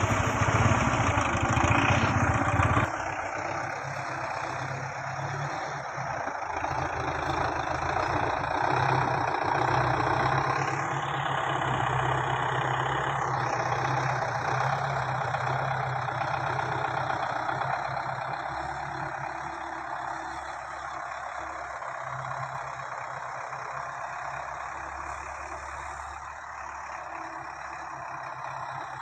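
Belarus 510 tractor's four-cylinder diesel engine running steadily. Its level drops sharply about three seconds in, then swells and fades gently.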